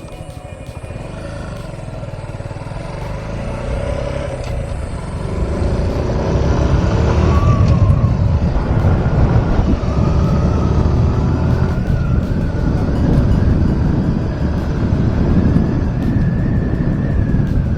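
Motorcycle engine and wind rush while riding, growing louder over the first six seconds as the bike picks up speed, then holding a steady rumble.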